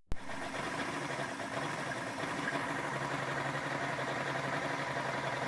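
Engine idling steadily, a rough idle, after a sharp click right at the start.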